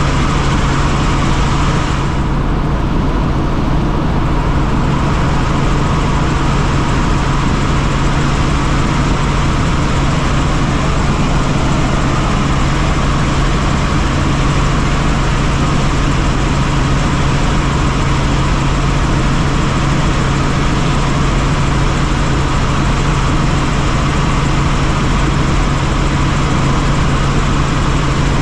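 Helicopter running steadily: a constant loud drone with a strong low hum.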